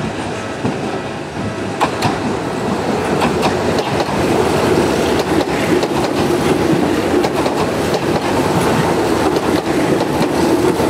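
Electric commuter train passing close by, its wheels clacking over rail joints and points, with a steady running drone that grows louder about four seconds in as the cars go by.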